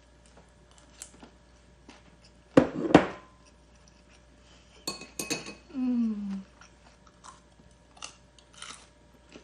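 Cutlery clinking and knocking against dishes during a meal. There are two loud knocks about two and a half to three seconds in, then a couple of ringing clinks about halfway through.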